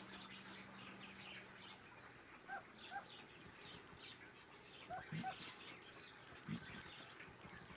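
Several small birds chirping faintly in an aviary: a scatter of short high chirps throughout, with a few short two-note calls.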